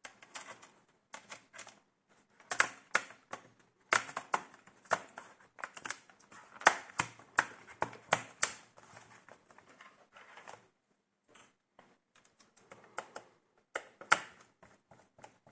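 Irregular clicks and taps of hard plastic laptop parts being handled during disassembly, in uneven clusters with short pauses.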